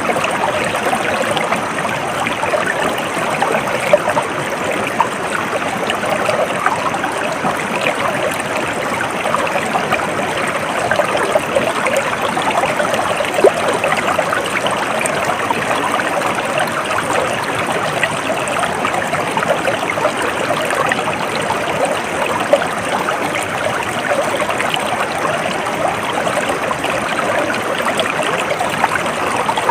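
Stream water flowing and trickling in a steady babble, with many small splashes and no pauses.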